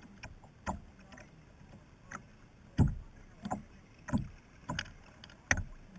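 Kayak paddling: a string of short paddle splashes and knocks at an uneven pace, the loudest a little under three seconds in.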